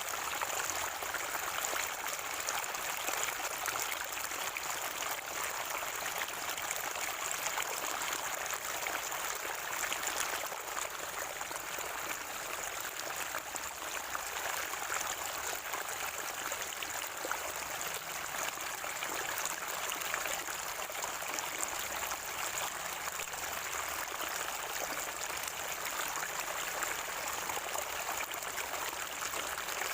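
Water of a natural spring flowing and gurgling in a steady, unbroken rush.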